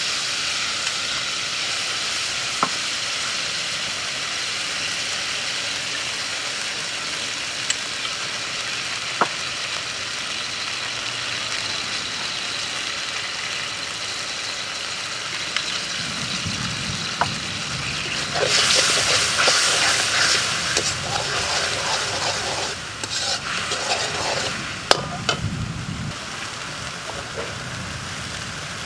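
Sauce and chili paste sizzling in hot oil in a metal wok, a steady hiss that slowly dies down. From just past the middle, a metal ladle stirs and scrapes the wok for several seconds, with a few sharp clicks of metal on metal.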